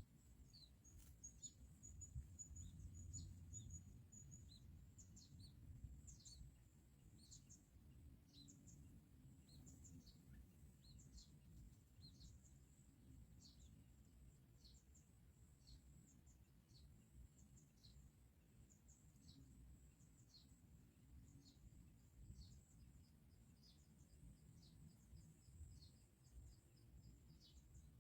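Faint, steady run of short, high, downward chirps from small birds, about one or two a second, over a low rumble.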